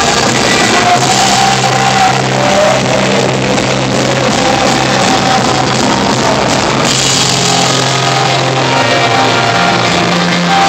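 Rock band playing, with drums and a sung melody over steady bass notes.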